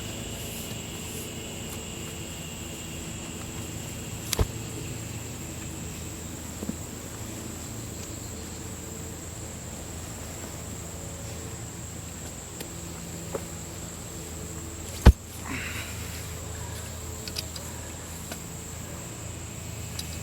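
Steady high drone of insects, with two sharp knocks, one about four seconds in and a louder one about fifteen seconds in, under a low steady hum.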